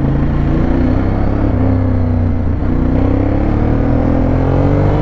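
Ducati Monster 821's V-twin engine running while riding. The engine note dips about two seconds in, then climbs steadily as the revs rise.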